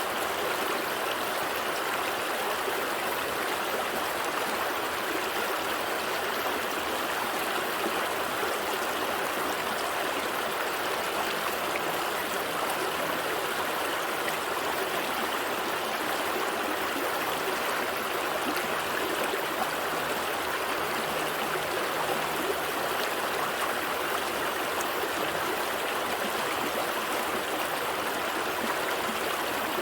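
Small stream flowing steadily over rocks: an even rush of water with light trickling and gurgling.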